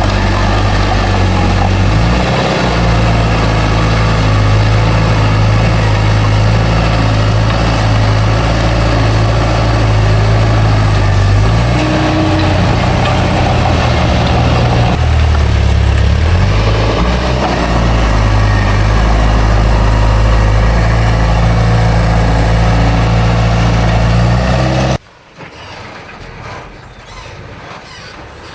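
A heavy earthmoving machine's diesel engine running loud and steady under work, its note shifting a few times as the load changes. The sound drops off abruptly near the end to a much quieter background.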